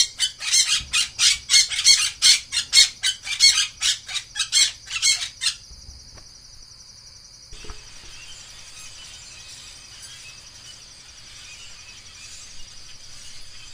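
A bird giving a rapid series of loud, sharp calls, about three a second, that stops after about five seconds. A steady high buzzing trill carries on after that.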